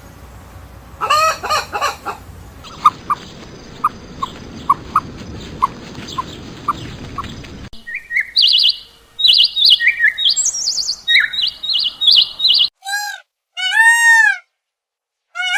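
A run of short bird recordings cut one after another. A chicken call comes about a second in, followed by a string of short, evenly spaced peeps over background noise. Then comes quick, high songbird chirping, and near the end a series of repeated arching, rise-and-fall calls.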